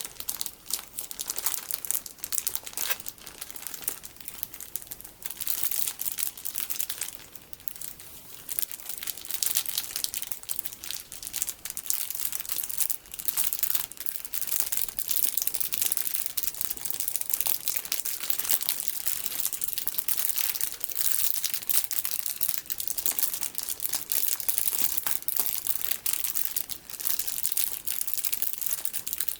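Plastic packaging full of small colourful sticky beads being handled and squeezed, giving a dense, continuous crisp crinkling and crackling with a few brief lulls in the first several seconds.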